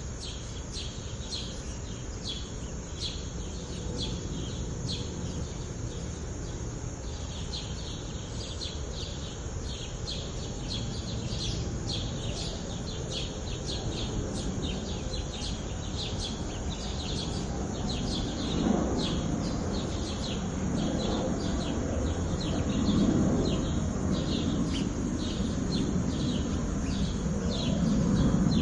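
Birds chirping, many short high chirps repeated several times a second over steady background noise. About two-thirds in, a louder low noise swells in and out beneath the chirps.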